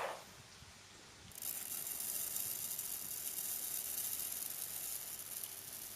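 Milkshake ingredients poured into a mixer jar, a steady hiss that sets in about a second in.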